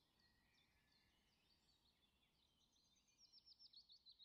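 Faint birdsong: scattered chirps and twitters over a quiet outdoor background hiss, then a quick run of sharp, falling chirps about three seconds in.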